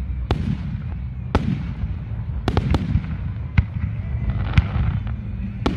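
Aerial fireworks shells bursting in a display: about seven sharp bangs in under six seconds, irregularly spaced, each trailing off in a short echo, over a steady low rumble.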